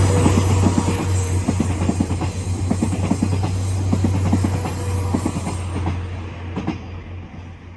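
Train wheels clattering over rail joints as a train passes, a quick run of repeated knocks over a steady low hum. The clatter and hum fade away over the last two seconds as the train moves off.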